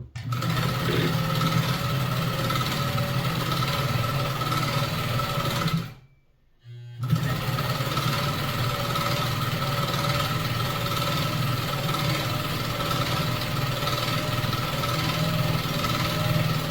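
Pfaff 130 sewing machine, with a cam-driven stitch pattern attachment engaged, running steadily while sewing a decorative pattern stitch. It stops about six seconds in and starts again a second later.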